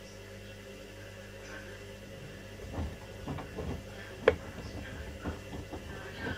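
Washing machines running a wash cycle: a steady motor hum, then irregular thuds and knocks from about halfway, with one sharp click.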